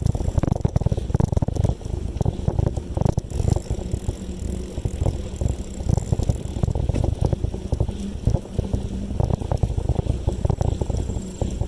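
Wind buffeting the microphone of a bicycle rider on the move: a low, fluttering rumble.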